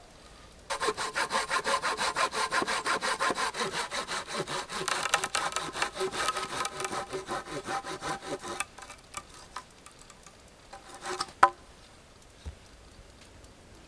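Hand saw cutting through wood in quick, even back-and-forth strokes, stopping about eight and a half seconds in. A few light clicks follow, then one sharp knock.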